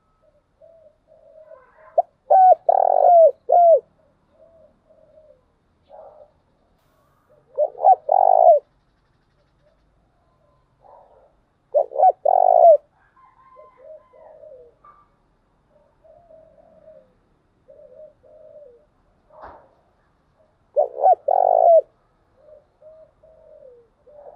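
Spotted doves cooing: four loud, low cooing phrases several seconds apart, with softer short coos between them. This is the kind of lure call used to rouse caged male doves into calling.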